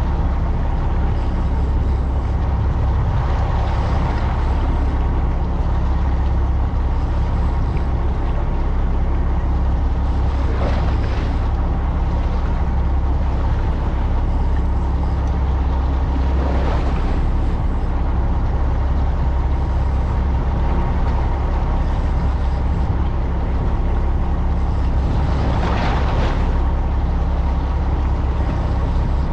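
Fishing boat's engine running with a steady low drone. A few brief rushes of noise pass over it.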